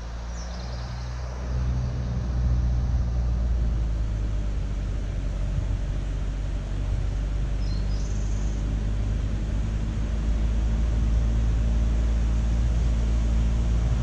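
Car driving at a steady pace, its engine and tyre noise a continuous low hum, with two brief high chirps, about half a second and eight seconds in.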